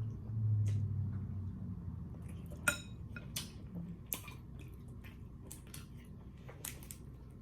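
Scattered light clicks and clinks of dishes and utensils during a seafood-boil meal of shrimp in sauce, a few sharp taps with gaps between them.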